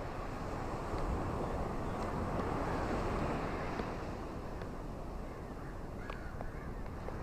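Sea waves washing onto a beach: a steady rush of surf that swells about a second in and eases off again, with a few faint small splashes.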